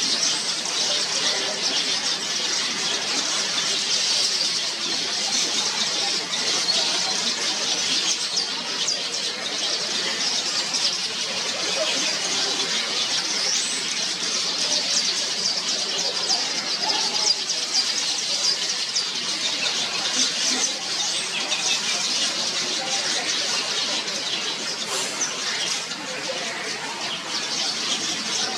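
A breeding colony of yellow weaver birds chattering, many birds calling at once in a dense, high-pitched, unbroken din of short calls.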